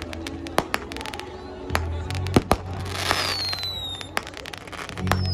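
Fireworks going off in a run of sharp bangs and crackles. About three seconds in comes a hissing burst, then a whistle falling in pitch.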